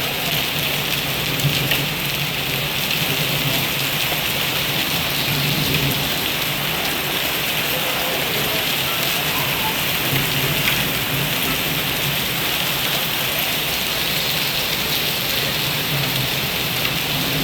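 Heavy rain falling steadily: an even, loud hiss of rain on surfaces, with a few sharper taps now and then.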